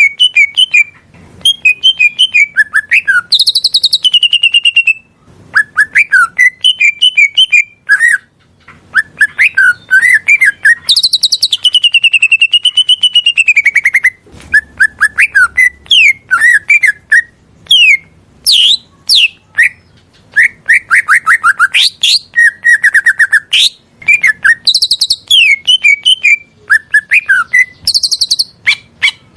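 Green leafbird (cucak ijo) singing a loud, varied song: phrase after phrase of rapid chirps, trills and sweeping whistles with short pauses between, and a long wavering whistle about halfway through.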